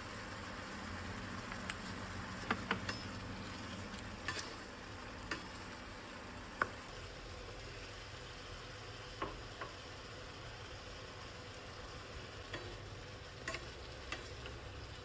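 Broccoli and mushroom stir-fry sizzling in a pan with a steady hiss, while being stirred, with irregular sharp clicks and taps of the utensil against the pan.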